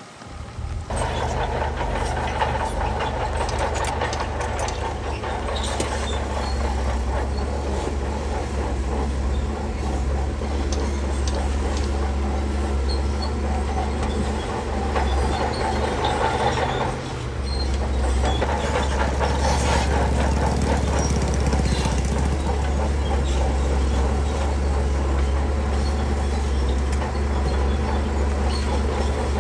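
Heavy diesel construction machinery running steadily under load, with scattered metallic clanks and rattles. The engine note dips briefly about halfway through, then picks up again.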